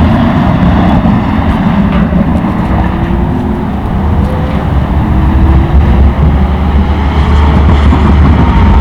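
Car engine accelerating hard, loud and continuous, its pitch climbing in rising sweeps through the middle.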